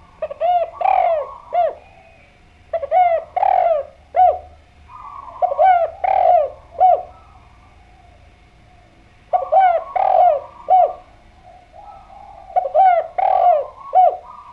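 Spotted dove (derkuku/tekukur) cooing in full song: five phrases a few seconds apart, each a short run of three or four arched coos.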